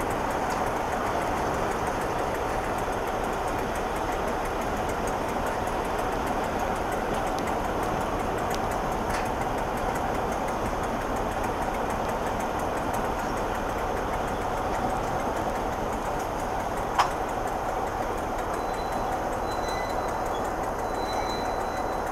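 Passenger train rolling slowly, heard from inside a coach as a steady running rumble of wheels on rails, with one sharp knock about three-quarters of the way through.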